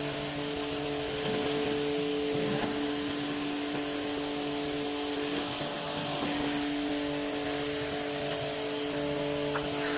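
Kärcher K2 cordless pressure washer running: its pump motor gives a steady two-note whine over the hiss of the water jet as it rinses foam off the car. The whine breaks off briefly a little past halfway, then carries on.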